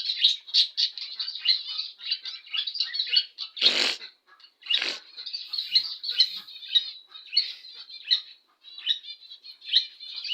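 Budgerigars chirping and warbling in a rapid, continuous chatter, with two short louder harsh bursts about four and five seconds in.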